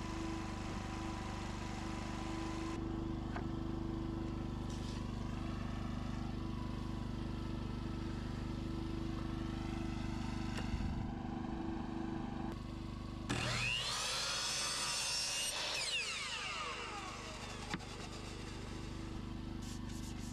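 Steady background hum, then a power saw runs for about three seconds, starting about two-thirds of the way in, and winds down with a falling whine. It is cutting engineered hardwood flooring boards.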